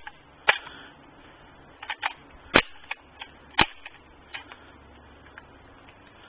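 Rifle shots at a range, a string of sharp cracks of uneven loudness. The loudest comes about two and a half seconds in, with strong ones near the start and about a second later, and fainter shots in between.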